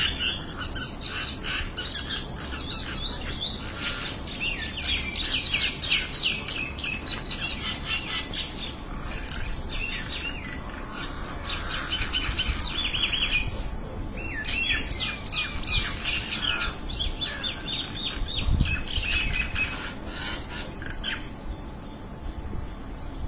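Birds chirping in quick, overlapping calls, thinning out near the end.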